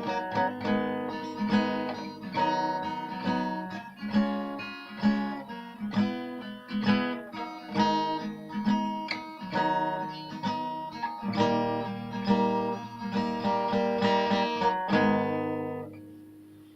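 Acoustic guitar playing chords in a steady rhythm, the closing instrumental of the song, ending on a last chord about fifteen seconds in that rings out and fades away.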